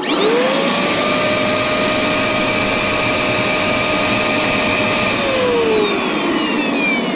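Dirt Devil vacuum cleaner switched on: the motor whine climbs to a steady pitch within about a second, runs with the brush roll spinning freely, then falls in pitch as it is switched off and winds down about five seconds in.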